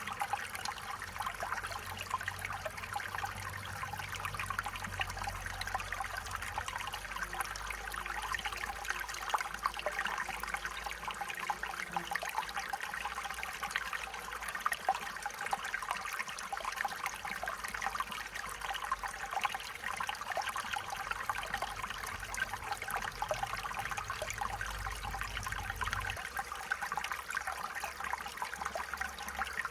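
Stream water trickling and babbling steadily over stones.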